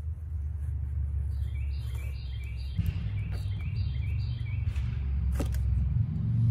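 A bird singing a quick run of short falling chirps, about three a second, from about a second in until near five seconds, over a low steady rumble. A couple of sharp clicks come as a utility knife cuts into the dashboard plastic, the louder one near the end.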